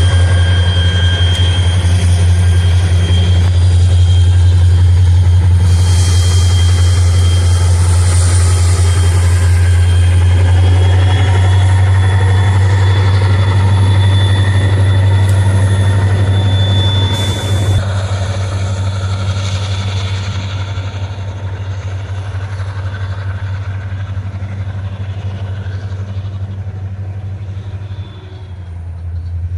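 Diesel locomotive-hauled train running by: a loud, steady low engine drone with thin high tones over it, easing off a little after about seventeen seconds.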